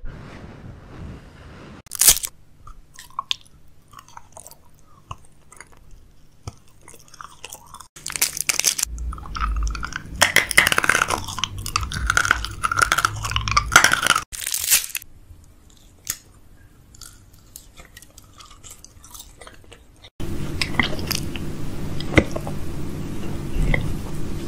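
Chewing and crunching of food close to a microphone, in several stretches that start and stop abruptly, the loudest and most crackly a few seconds past the middle.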